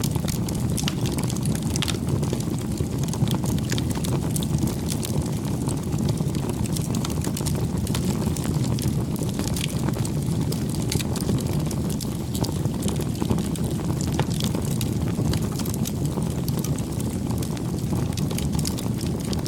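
Campfire burning: a steady low rumble of the flames with many small scattered crackles and pops from the burning wood.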